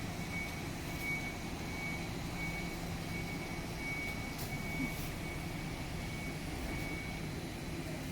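Reversing alarm beeping evenly, a little under one and a half beeps a second, over a steady low rumble. The beeping stops near the end.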